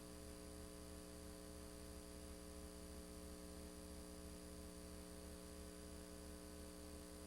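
Faint, steady electrical hum made of several constant tones over light hiss, with a low pulsing throb underneath that repeats several times a second.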